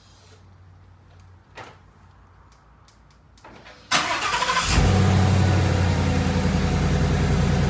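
A 2016 Mustang GT's 5.0 L Coyote V8 is cold-started. A few faint clicks come first, then the starter cranks briefly about four seconds in. The engine catches and settles into a steady idle.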